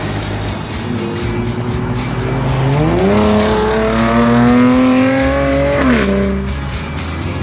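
A car engine revs up as it accelerates, climbing steeply in pitch about three seconds in and then more slowly, before dropping off sharply as the throttle is lifted about six seconds in.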